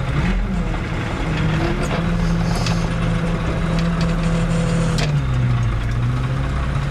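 Fiat 110-90 tractor's six-cylinder diesel engine running on the road. Its steady note drops to a lower pitch about five seconds in, with a click at the change.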